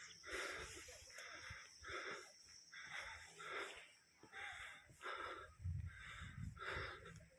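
A person breathing hard close to the microphone, quick rhythmic breaths at about two a second. A low rumble joins near the end.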